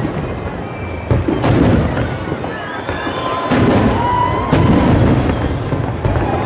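Aerial firework shells bursting overhead: a series of booms a second or two apart over a continuous low rumble.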